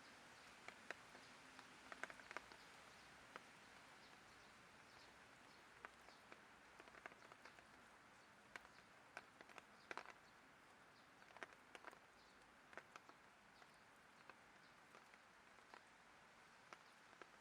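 Light rain: scattered drops tapping irregularly over a faint steady hiss.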